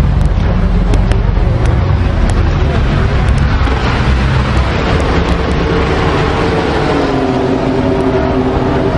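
Ferrari sports car engines running as a line of cars rolls slowly past, a steady deep rumble; from about six seconds in, one engine's note climbs as it pulls away.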